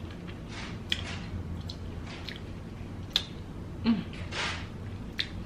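Close-miked chewing of a whole boiled egg: soft squishy mouth sounds with a few sharp clicks, the loudest about 4 s in.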